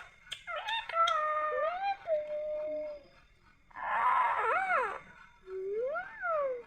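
Parrot calling three times: a long drawn-out call that bends up and down, a harsher squawk that rises and falls in pitch, then a shorter rising-and-falling call.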